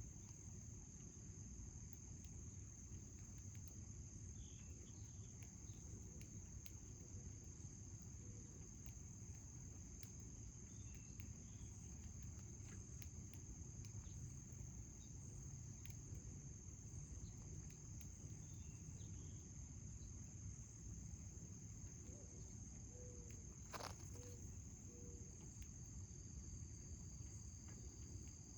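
Steady, high-pitched trill of insects with a low background hum, and a single sharp click late on.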